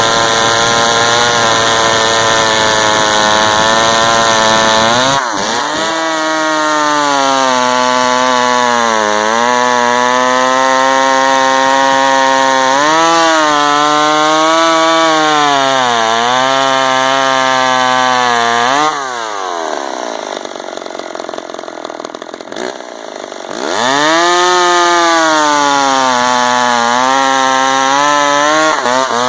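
Two-stroke gas chainsaw running at high throttle while cutting wood, its engine pitch repeatedly sagging under load and picking back up. About 19 s in it drops to a lower, quieter note for a few seconds, then revs back up and cuts again.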